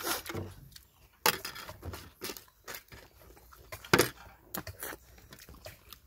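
A man chewing food close up while eating with his hands off a plate, with scattered short clicks and rustles and a sharper knock about four seconds in.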